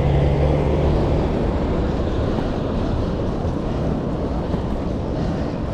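Wind rushing over the action camera's microphone on a moving road bike, with deep rumble. A low steady hum fades out about a second and a half in.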